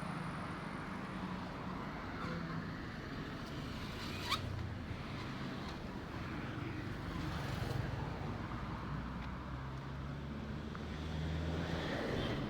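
Road traffic: cars driving past on a busy street, a steady hum of engines and tyre noise, with a single short click about four seconds in.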